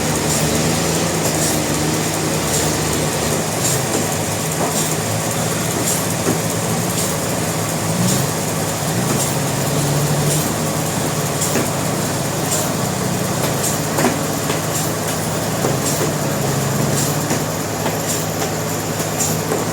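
Sawmill machinery running: a steady engine drone that shifts slightly in pitch now and then, with a sharp clack about once a second.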